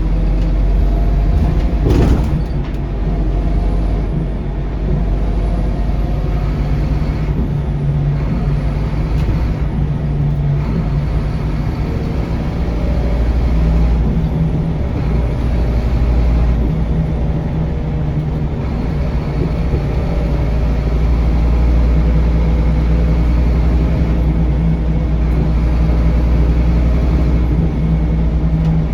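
Scania K230UB bus's five-cylinder diesel engine running steadily, heard from inside the cabin, over a haze of road and tyre noise. A brief sharp sound cuts through about two seconds in.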